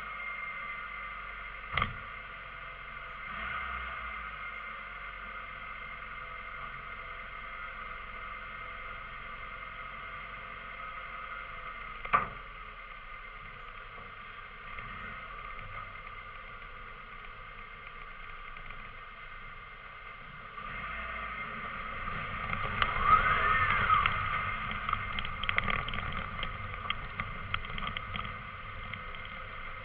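Alfa Romeo Giulietta engine idling steadily with an even hum, broken by two sharp knocks. Later it grows louder and busier, with one short rise and fall in pitch like a light rev, and a run of small clicks.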